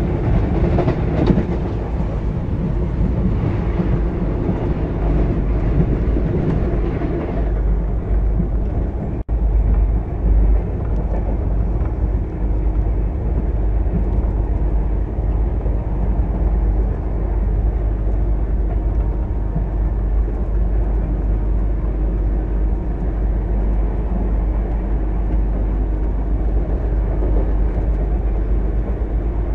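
An opposing express train's coaches rush past close alongside for about the first seven seconds, then the steady rumble of the passenger coach's wheels on the track at speed.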